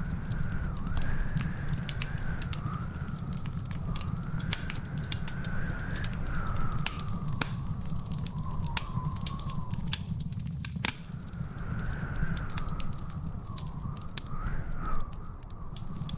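Wood fire in a fireplace crackling, with irregular sharp pops over a steady low rumble. A wavering high whistle runs alongside, rising and falling in pitch and dropping out for a moment about ten seconds in.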